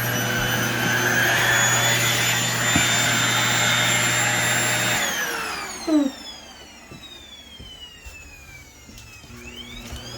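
Vacuum cleaner motor running steadily with a high whine. About five seconds in it is switched off and winds down, its whine falling slowly, with a short fart-like blurt about six seconds in. Near the end the motor starts up again with a rising whine.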